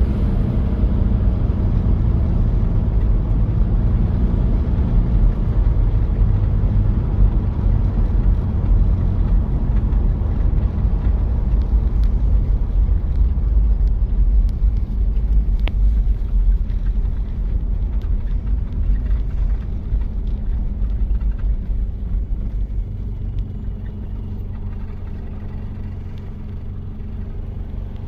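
1993 Toyota Prado's diesel engine running while driving, a steady low rumble of engine and road noise. There is one sharp click about halfway through, and the sound eases off gradually over the last several seconds.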